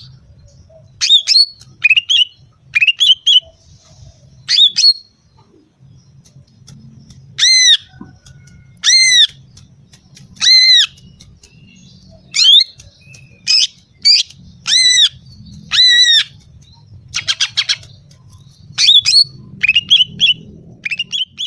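Female greater green leafbird (cucak ijo) calling: a string of loud, short arched notes that rise and fall, about one every second or two, with quicker clipped chirps between them and a fast rattle of notes about three-quarters of the way through. It is the female's call used to lure and excite males.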